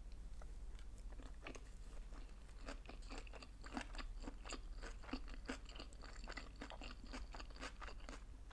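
Close-up chewing of sushi rolls: a run of small wet mouth clicks and crunches, several a second, busier from about two and a half seconds in.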